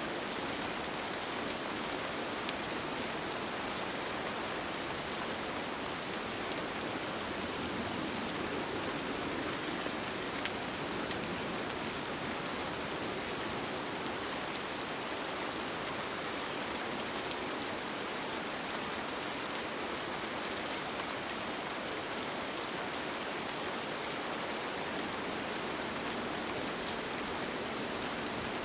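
Steady rain falling on a tent, with a dense patter of drops.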